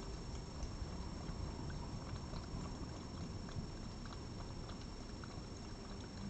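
Steady low outdoor rumble with a thin, steady high whine and faint scattered clicks.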